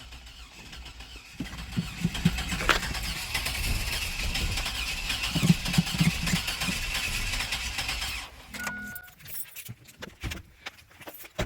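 2002 Chevrolet Blazer's starter cranking its 4.3-litre V6 for about seven seconds without the engine catching, a sign of the wet-weather no-start. The cranking cuts off abruptly, then a short electronic beep and a few clicks follow.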